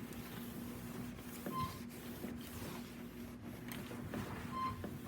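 Two short, single-pitch electronic beeps about three seconds apart, over a steady low hum and a few faint knocks.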